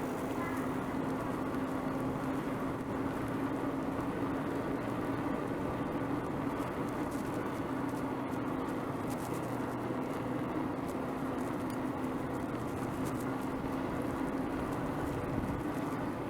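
Bicycle rolling along a paved road: steady tyre and road noise with a low, even hum.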